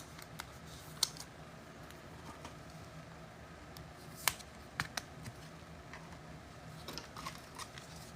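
Trading cards being handled at a table: scattered faint clicks and taps, with a couple of sharper clicks about one second in and around four to five seconds in, over a low steady hum.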